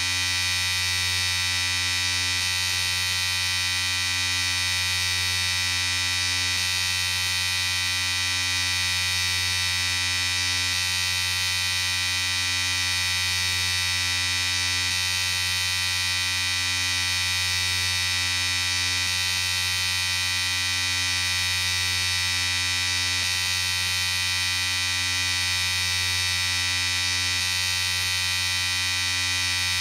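Electric shaver running with a steady, even buzz.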